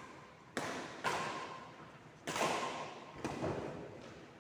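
A ball being struck back and forth in a rally of a racquet or paddle game. About five sharp hits come roughly a second apart, each echoing in a large hall.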